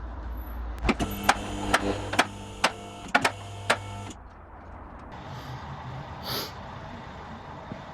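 A series of about nine sharp metallic knocks over about three seconds, irregularly spaced, over a steady ringing hum. This is tool work on the car's rear suspension or differential, and it cuts off suddenly. After that there is only faint background noise.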